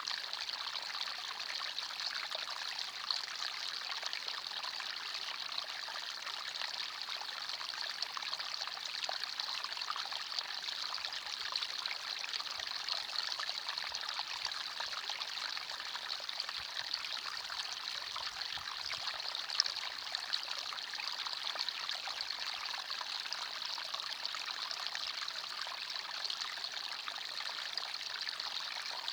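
Small forest stream running and trickling steadily over stones.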